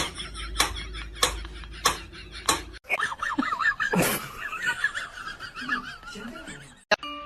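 Sharp slaps repeating about every 0.6 s, then a different clip with someone laughing and one loud thump about four seconds in.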